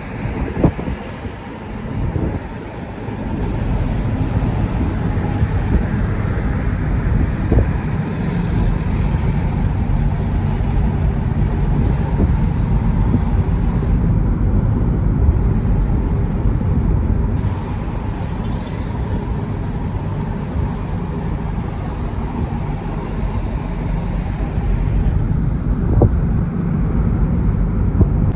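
Truck on the move: steady engine and road noise, heaviest in the low range, with a few knocks in the first seconds.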